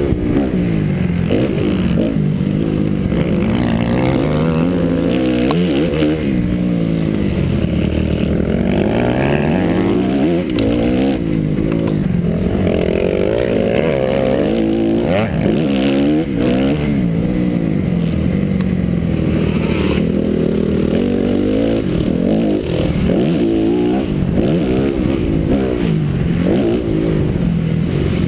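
Honda CRF motocross bike's four-stroke engine revving up and down over and over as it is ridden around the track.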